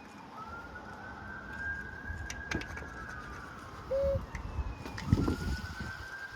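A siren wailing in slow rising-and-falling cycles like a police car's, the rise starting over about twice, with low thuds underneath.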